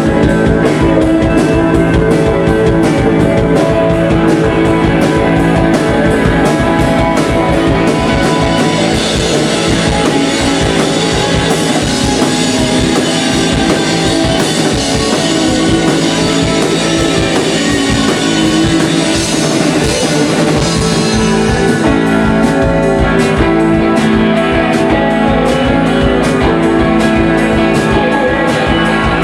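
Rock band playing live, guitar and drum kit, with a steady run of drum hits over sustained guitar chords, heard loud through a camcorder's microphone.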